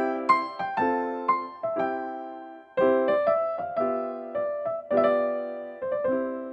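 Relaxing background piano music: chords and melody notes struck one after another, with a final chord left ringing and fading near the end.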